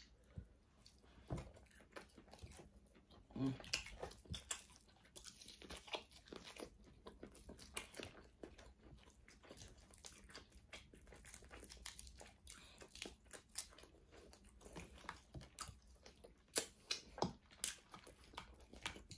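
Close-miked eating sounds from a seafood boil: chewing and crunching with many small clicks and crackles, a few louder ones near the end.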